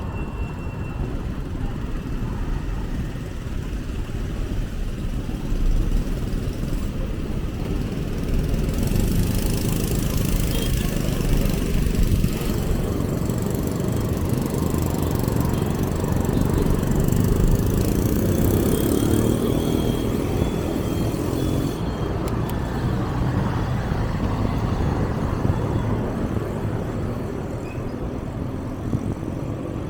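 Street traffic: motorbikes and other vehicles passing, over a steady low rumble. An engine rises and falls in pitch as it goes by, about two-thirds of the way in.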